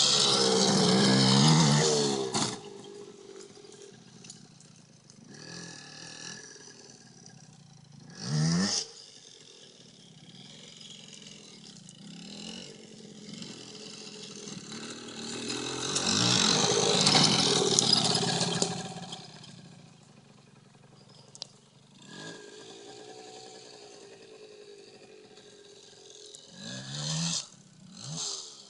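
Dirt bike engine revving as the bike is ridden around: loud at the start and again about halfway through as it comes close, fainter in between, with short rising blips of throttle.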